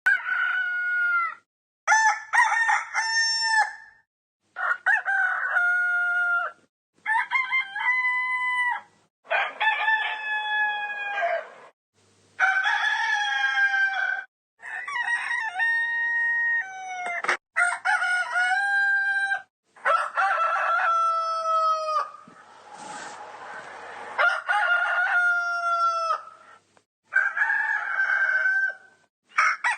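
Roosters crowing, about a dozen separate cock-a-doodle-doos one after another, each lasting a couple of seconds and broken off by abrupt silent gaps as in a sound-effects compilation. A rougher, noisier call sits around two-thirds of the way through.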